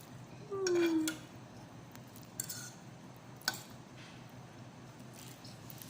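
Utensil clinking against a bowl of noodles while eating, two sharp clinks about a second apart. Just before them, a brief voiced sound falling in pitch.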